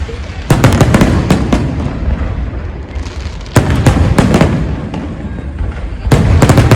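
Aerial fireworks exploding in three volleys about three seconds apart. Each volley is a quick string of sharp bangs followed by a low rumbling echo that fades before the next.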